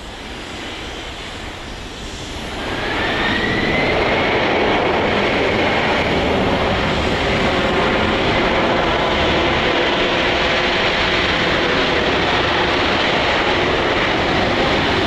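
Boeing 747-400 freighter's four jet engines on landing. About two and a half seconds in they swell to a loud, steady rumble with a high whine, which climbs briefly and then holds.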